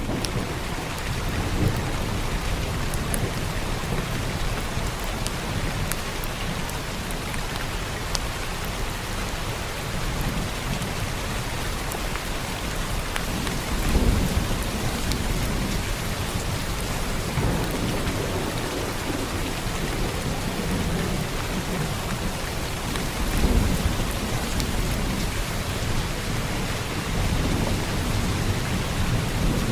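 Heavy rain falling steadily, with low rolling thunder rumbling up twice, about halfway through and again some seconds later.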